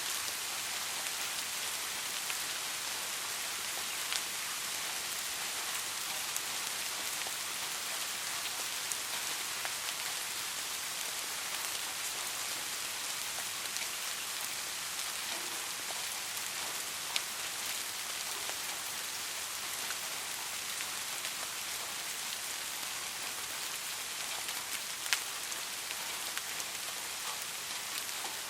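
Steady soft rain: an even hiss of falling rain with scattered individual drops ticking, a few slightly louder ones spread through.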